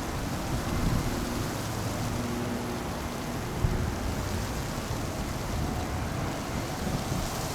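Strong gusty wind rushing over the microphone: a steady noisy roar with a heavy low rumble, and a faint low hum underneath.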